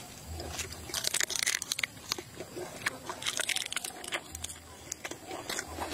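Crisp crunching of a raw flat green bean pod being bitten off and chewed, in two bouts: about a second in and about three seconds in.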